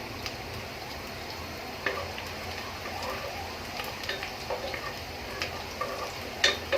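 Onions and spices frying in oil in a pot, a steady sizzle, with a spoon scraping and clicking against the pot now and then; the sharpest clack comes near the end.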